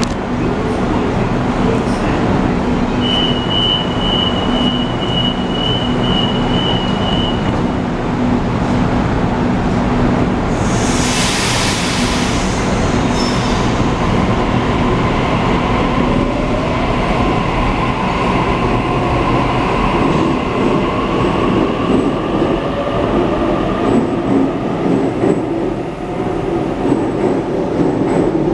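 Sydney Trains electric train at the platform: a steady high beep sounds for several seconds, then a loud hiss of air about ten seconds in as the doors close. From about halfway the train pulls away, its traction motors whining in rising pitch over a steady hum.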